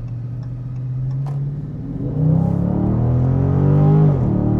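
Dodge Charger Scat Pack's 6.4-litre V8 running steadily, then accelerating hard from about two seconds in, its note climbing and getting louder until the revs drop sharply near the end at a gear change.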